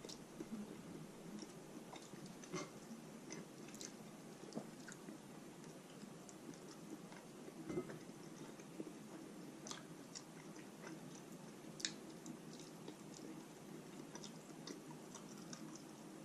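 Faint chewing of roast chicken meat, with scattered small wet clicks from the mouth.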